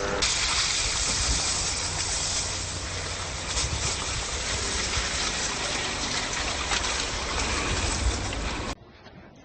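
Blizzard wind rushing and buffeting against the microphone: a steady hiss with uneven low rumbling that cuts off suddenly near the end.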